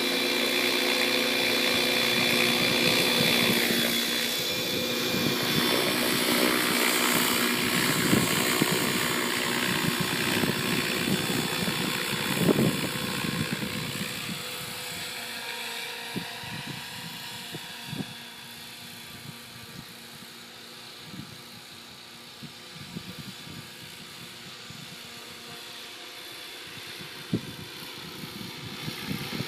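Radio-controlled model helicopter's motor and rotor whine, steady at first and fading away over the first half. Irregular low rumbles hit the microphone throughout.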